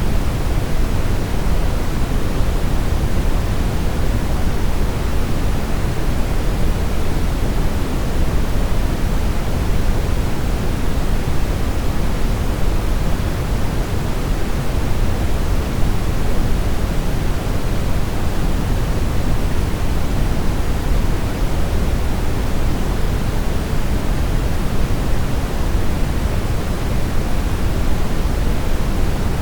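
Steady brown noise: an even, unchanging rumble of hiss, heaviest in the bass and rolling off toward the highs.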